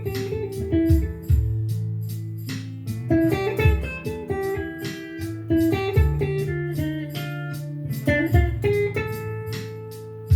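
Guitar playing a blues tune: plucked single notes and short phrases over sustained low bass notes.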